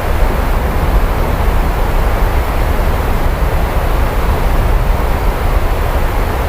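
Steady, loud rainfall with an unbroken low rumble beneath it.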